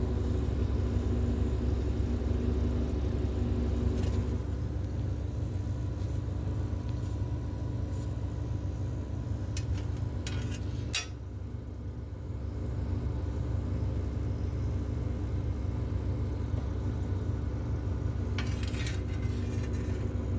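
Steady low mechanical hum with several constant tones, broken by a few brief clicks or knocks.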